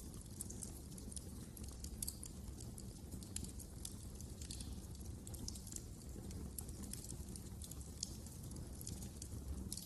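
Wood fire crackling in a fireplace: irregular sharp pops and snaps, many a second, over a steady low rumble of the burning fire.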